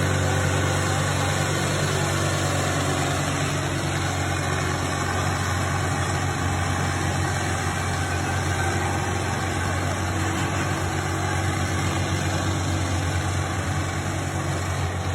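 Tractor's diesel engine running steadily under load, pulling a harrow.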